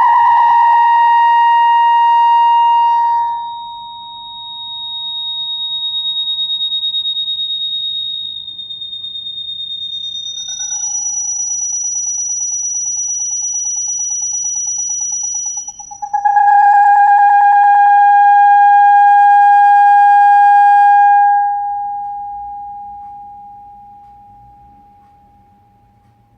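Laptop giving off a weird, creepy electronic sound: long wavering tones that jump to a new pitch every few seconds over a faint low hum, then fade away over the last few seconds.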